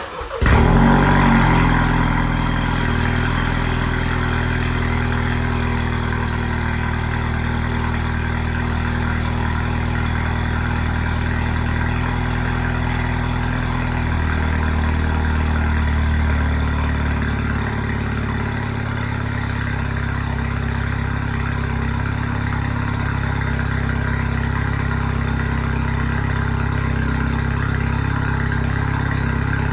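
2016 MINI Clubman S (F54) with a Remus exhaust run full open, starting up: its 2.0-litre turbocharged four-cylinder catches at once and flares briefly, then settles into a steady idle. The low idle note shifts about halfway through.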